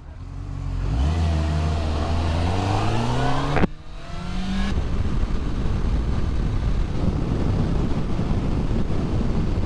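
Motorcycle engine accelerating away from a stop, its pitch rising steadily, with a gear change about three and a half seconds in and a second shorter rise. After that, wind rushing over the microphone drowns the engine as speed builds.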